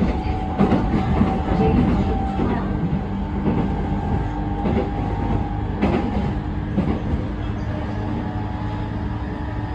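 E217 series electric multiple unit running along the line: a steady rumble of wheels on rail under a steady motor hum, with wheels clacking over rail joints a few times.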